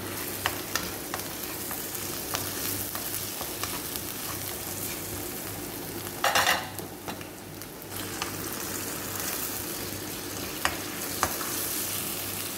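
Minced garlic and onion sizzling steadily in oil in a nonstick wok as they are stirred for a sauté, with light taps of the slotted spoon against the pan. A brief louder rush comes about six seconds in.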